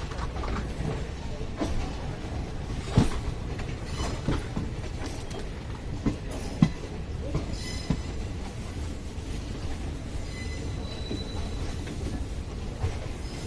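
Train running on the track: a steady low rumble with irregular clacks and knocks as the wheels pass over rail joints, and brief faint wheel squeals.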